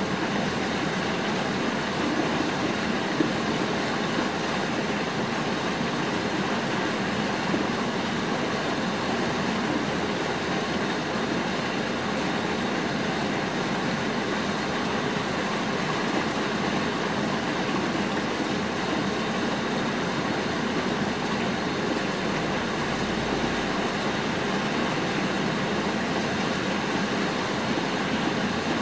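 Steady rain falling on the roofs outside a screened window: an even, unbroken hiss.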